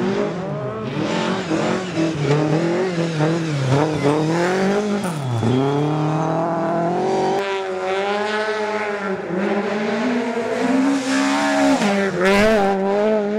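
Rally car engine revving hard, its pitch climbing and dropping repeatedly through gear changes and lifts, with a deep dip about five seconds in. A short burst of noise comes near the end.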